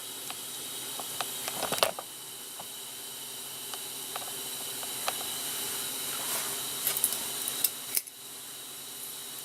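Steady hissing noise of a grinding tool working metal, slowly growing louder, with a few light clicks and knocks and a brief dip near the end.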